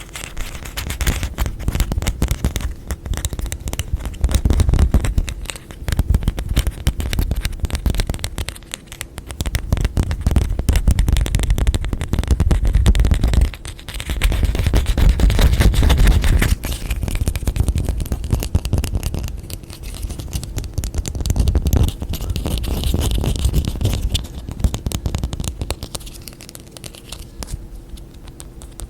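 Rapid ASMR tapping and scratching on objects close to the microphone: a dense run of small clicks over a low rumble, swelling and easing every few seconds with a short pause about halfway.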